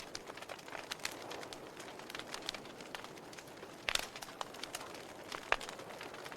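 Wood fire crackling: irregular small pops and snaps over a soft hiss, with two louder pops about four and five and a half seconds in.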